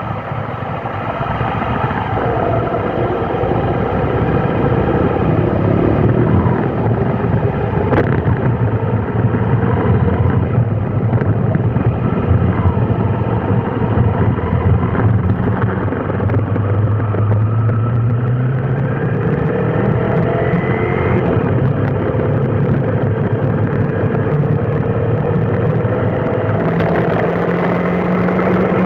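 Road traffic: vehicle engines running in a steady din, with engine tones rising and falling as vehicles pull away and slow down.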